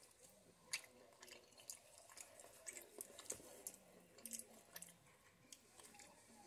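Faint chewing of a bite of a sausage, egg and cheese croissant sandwich: soft, wet mouth clicks scattered irregularly.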